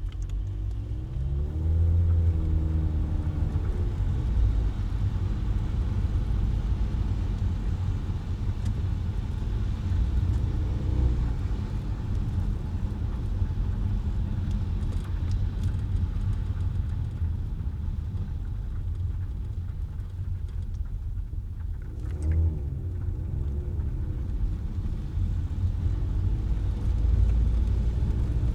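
Car driving in city traffic: a steady low rumble of engine and tyres on the road, with the engine's pitch rising and falling as it speeds up about two seconds in and again a little past the twenty-second mark.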